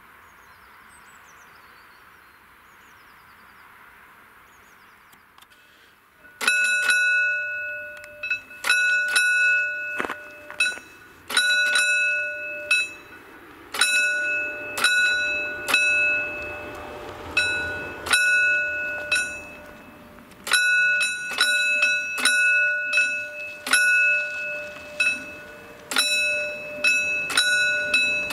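Pre-warning bell (předzváněč) of PZM1 mechanical level-crossing barriers, ringing in irregular groups of two or three strikes that start about six seconds in, warning that the barriers are about to be lowered for an approaching train. Before it there is only a faint hiss with a few bird chirps.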